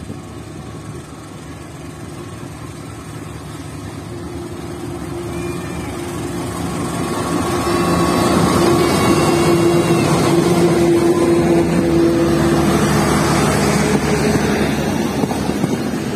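Passenger train hauled by a CC 206 diesel-electric locomotive approaching and passing close by. The engine grows steadily louder and peaks as the locomotive goes past about eight seconds in, followed by the rumble of the coaches rolling by.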